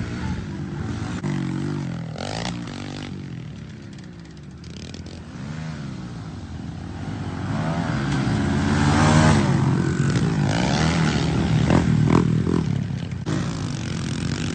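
A small motorcycle engine, likely a pit bike, revving up and down over and over as it is ridden, rising and falling in pitch, and loudest in the middle stretch.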